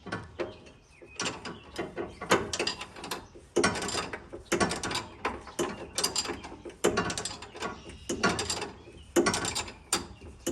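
Hand socket ratchet clicking in repeated back-and-forth strokes, about one a second, as it turns the nut on a sway bar end link.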